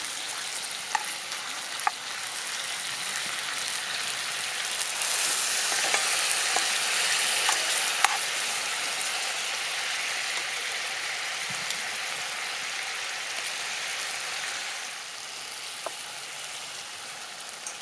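Food sizzling and frying in a pan over a campfire, with a few light clicks. The sizzle swells about five seconds in and eases a little near the end.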